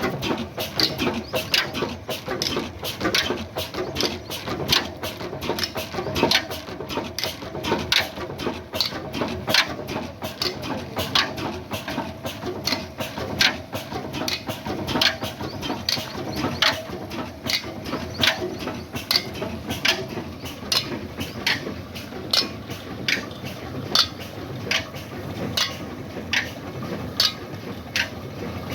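35 hp Ruston Hornsby oil engine running steadily, its mechanism knocking in an even rhythm about one and a half times a second, with lighter clicks between the knocks.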